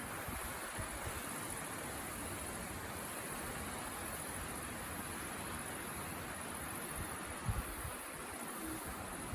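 Steady, even hiss of background noise with faint steady high tones above it, and one brief low thump about seven and a half seconds in.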